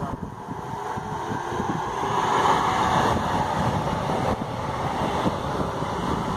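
Electric multiple unit train passing close by on the track beside the platform: wheels running on the rails, swelling to its loudest about three seconds in as the cars go by, with wind noise on the microphone.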